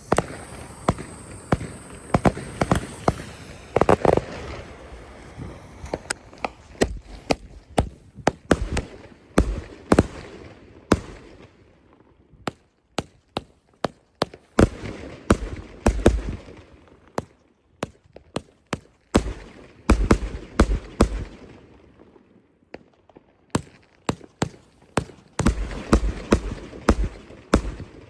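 Fireworks going off: a rapid run of bangs and cracks with a high hiss in the first few seconds, then further clusters of sharp bangs with short lulls between them.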